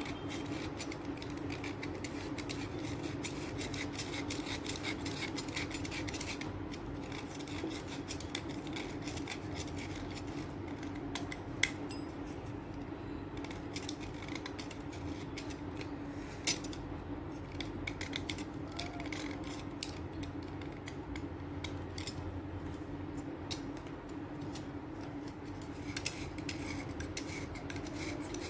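Chalk being cut and scraped into powder: a dense, continuous run of fine crunching scrapes, with two sharp clicks near the middle.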